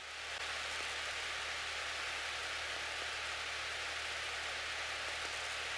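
Steady hiss of an aircraft's intercom and radio audio feed, with a faint steady tone and a low hum beneath it.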